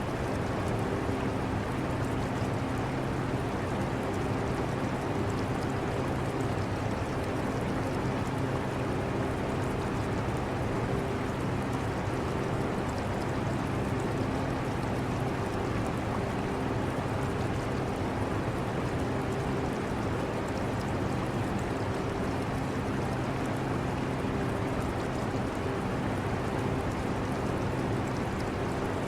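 Air conditioner running with a steady hum and an even rush of moving air, mixed with the trickle of aquarium water.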